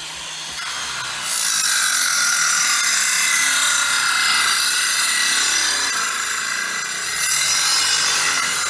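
A corded electric machine runs steadily with a loud, rasping whine. It grows louder about a second in, and its pitch wavers with load.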